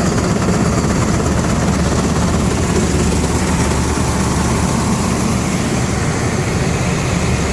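Tractor-powered grain auger running at work, with wheat flowing from the bin into a grain trailer hopper: a steady, unbroken mechanical drone.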